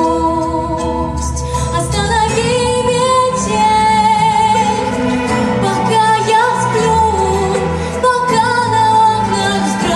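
Pop song with a female voice singing over a backing track, in long, wavering held notes.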